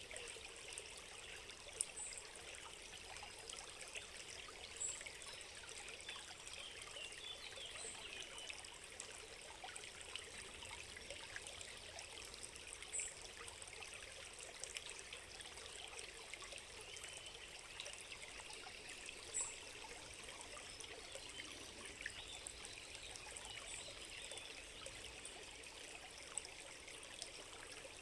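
Faint trickling stream, a steady, even sound of running water. A few short, high chirps are heard now and then over it.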